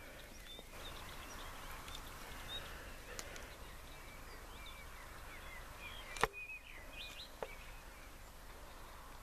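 Small birds chirping and calling on and off over a steady outdoor hiss, with a sharp click about six seconds in and a fainter one a second later.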